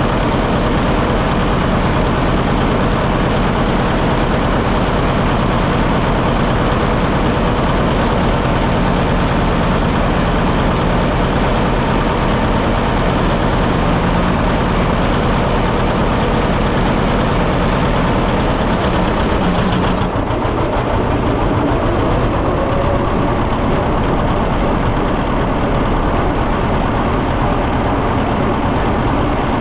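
John Deere 730 two-cylinder tractor engine running steadily while driving. About twenty seconds in the sound turns duller and a low steady tone drops out.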